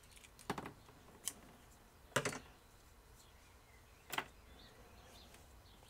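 A few short, sharp snips and clicks, about four in all, as a small piece of insulation tape is cut for a figure's scarf.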